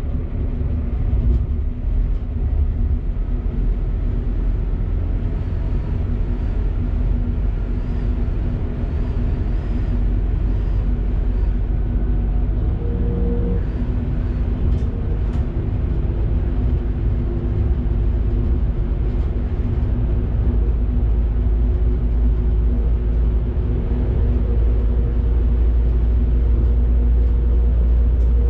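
Electric train running along the track, heard from the driver's cab: a steady low rumble with a constant electric hum, growing slowly louder, and a few faint clicks.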